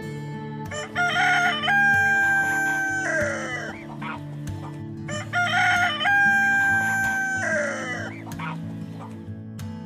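Rooster crowing twice, a few seconds apart: each crow opens with short stepped notes, holds one long note, then falls away at the end.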